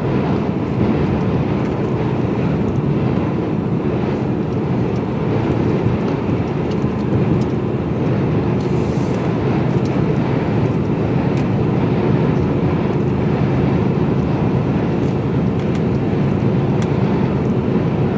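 Mercedes-Benz Actros lorry cruising at motorway speed, heard from inside the cab: a steady engine drone mixed with tyre and road noise.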